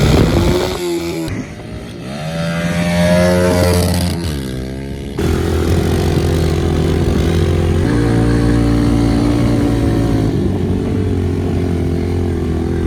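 Pit bike engine revving up and down, then a sudden change to the engine running steadily at speed, its pitch stepping a little twice.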